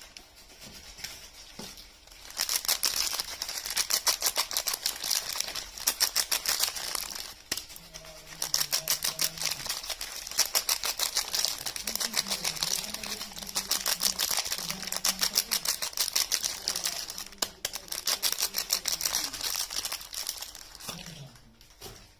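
Rapid, dense crinkling and crackling from bars of soap and their wrapping being handled and unwrapped. It starts about two seconds in and comes in stretches of a few seconds, fading out near the end.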